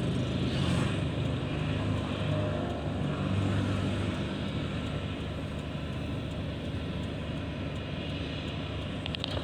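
Airliner's engines running, a steady rumble and hiss that grows a little quieter over the first few seconds and then holds steady.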